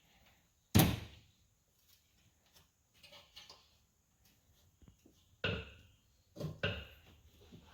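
Sharp knocks and clunks from working on a stuck part of a Polaris Ranger during teardown: one loud knock about a second in, then three more in quick succession near the end.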